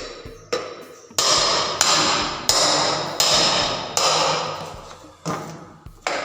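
Repeated hammer blows on a ceiling fan's metal motor casing, about one every two-thirds of a second, each ringing briefly. The blows are knocking the casing halves apart. The strongest blows come between about one and four seconds in.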